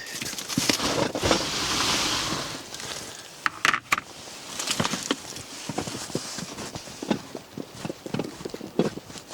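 Footsteps crunching in snow at an irregular pace, with a rushing noise swelling a second or two in and a sharp double knock near the middle.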